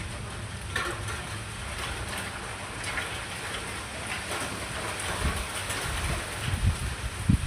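Rain falling steadily in a thunderstorm, with scattered sharp drop ticks; a low rumble builds near the end.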